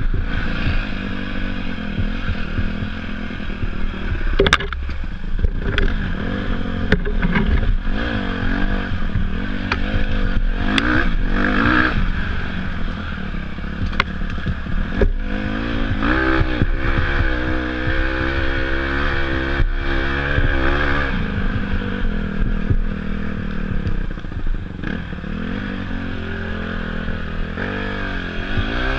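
Off-road dirt bike engine being ridden, its pitch rising and falling again and again as the throttle is worked. Sharp knocks and clatter from the bike over rough ground come through several times in the first half.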